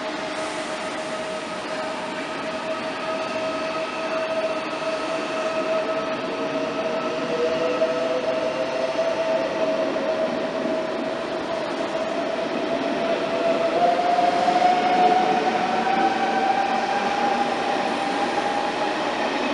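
ICE high-speed electric train pulling out of the platform, its traction motors giving a whine that rises slowly in pitch as it gathers speed, over the steady rushing noise of the moving train, growing louder towards the end.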